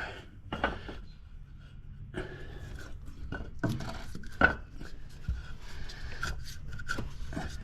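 Scattered light knocks and clinks of parts and a wooden block being handled, with a couple of sharper knocks near the middle, over a steady low hum.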